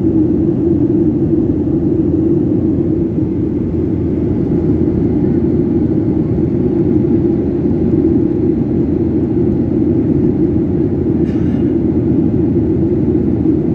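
Steady drone of a Boeing airliner in flight, heard from inside the passenger cabin: engine and airflow noise.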